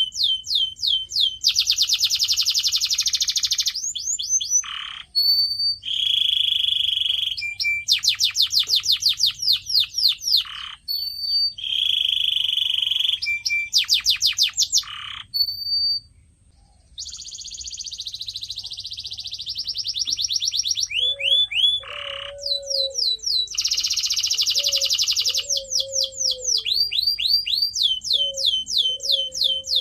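Canary singing a long, varied song: rapid runs of high falling whistled notes repeated several times a second, dense buzzy rolls and short held tones, with a brief pause partway through. A quieter, lower wavering tone runs under the song in the last third.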